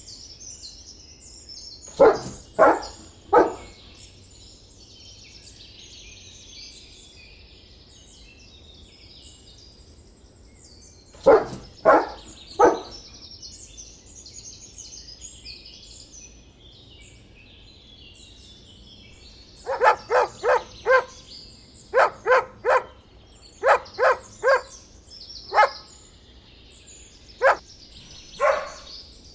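A dog barking in short groups: three barks, a long pause, three more, then a longer run of barks in quick clusters. Birds chirp steadily in the background throughout.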